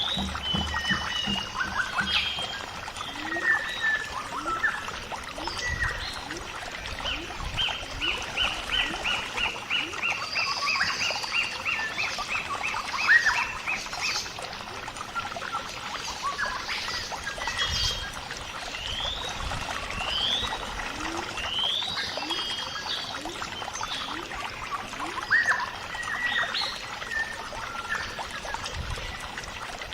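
Birds chirping and calling over a steady trickle of water, including one long series of evenly repeated notes from about 7 to 14 seconds in.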